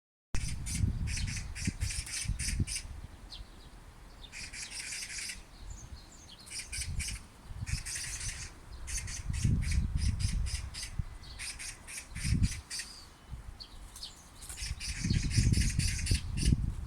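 Oriental magpies giving harsh, rattling chatter calls: rapid runs of dry notes in repeated bouts. A low rumble comes and goes beneath them.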